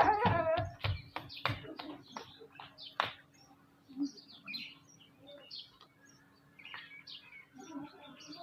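Birds at a feeder chirping repeatedly in short, scattered calls, opening with a loud warbling call. A run of sharp clicks and taps comes through the first three seconds.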